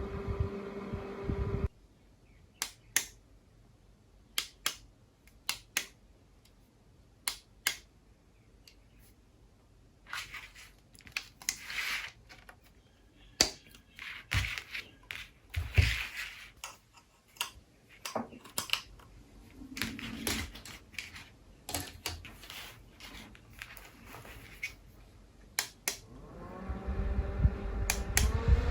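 Small USB fan's motor hum cuts off about two seconds in. Scattered sharp plastic clicks and handling noises follow. Near the end the fan starts again, its hum rising in pitch as it spins up.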